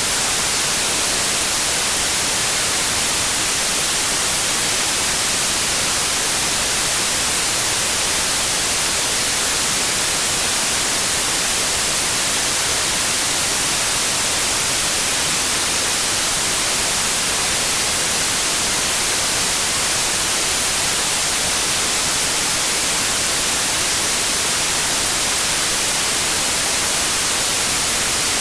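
Generated white noise: a loud, steady hiss, brightest in the treble, that holds one even level without any change.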